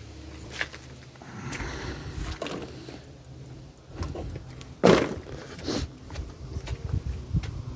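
Tamiya TXT-2 RC monster truck crawling over rough ground, its electric motor and drivetrain running unevenly with scattered knocks and clicks. A sharp crack about five seconds in is the loudest sound, with a second one just under a second later.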